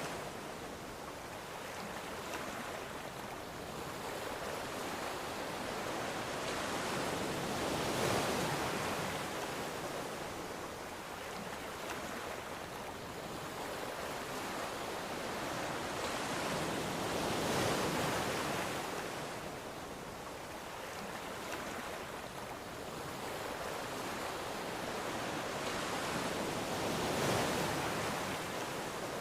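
Ocean waves breaking on a shore, a steady wash of surf that swells about every nine or ten seconds as each wave comes in and then ebbs.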